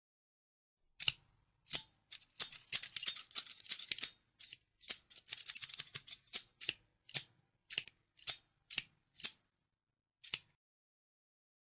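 Scissors snipping. The cuts start about a second in and come in a quick, closely spaced run, then thin out to single snips roughly every half second, with one last snip near the end.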